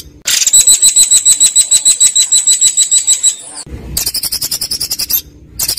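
Songbird calls from a masteran training recording: a fast string of sharp, ringing notes, about nine a second for some three seconds, then after a short break another fast run of harsh, rattling notes. Harsh and sharp, as masteran for white-rumped shamas and contest birds is meant to be.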